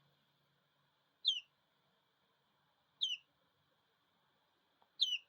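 Three-week-old chick peeping: four short, high calls that each slide downward in pitch, spaced a second and a half to two seconds apart, the last two close together near the end.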